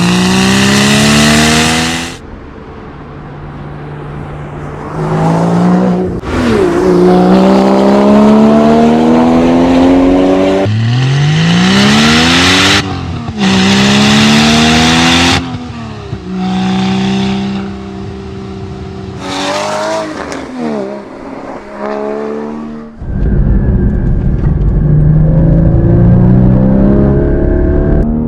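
High-performance sports car engines accelerating hard, each run rising in pitch and dropping back at the gear changes, with a rev up and down partway through. The sound jumps abruptly between separate runs, and a lower, rumbling engine takes over near the end.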